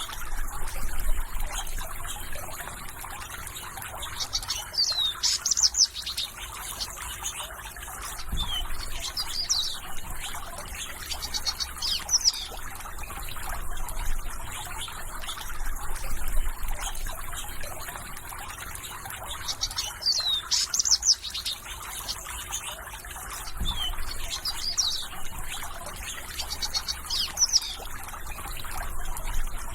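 Songbirds singing short, repeated chirping phrases over the steady sound of trickling water.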